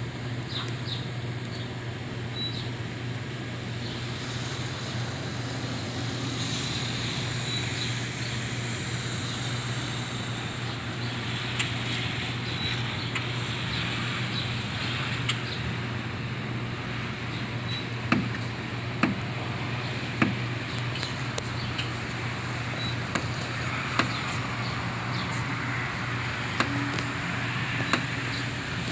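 Wintry outdoor ambience: a steady low hum under a faint hiss. A few faint, short bird chirps are scattered through it, along with occasional sharp clicks in the second half.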